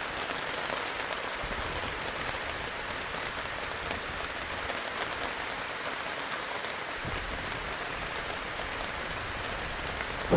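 Steady heavy rain falling, an even hiss of many fine drops pattering on a surface at a constant level.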